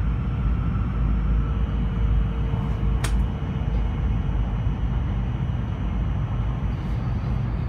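Steady low rumble of a Kyushu Shinkansen bullet train running at speed, heard inside the passenger cabin, with a faint steady tone over it. A single sharp click about three seconds in.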